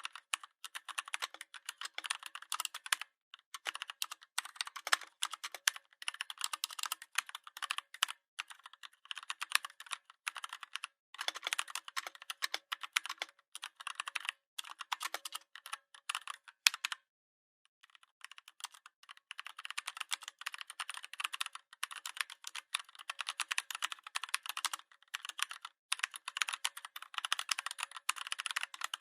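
Typing on a keyboard: runs of quick keystrokes with short pauses, and a break of about a second and a half roughly seventeen seconds in.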